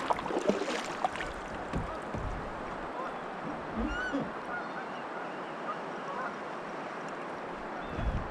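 Birds calling over a steady wash of moving river water, with a few dull low knocks.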